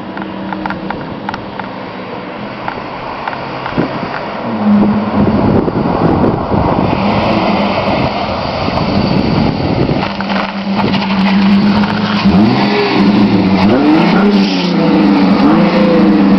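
1999 Chrysler 300M's 3.5-litre V6 running through a Flowmaster exhaust, a steady engine note that grows louder from about a third of the way in, with a few brief pitch swoops near the end.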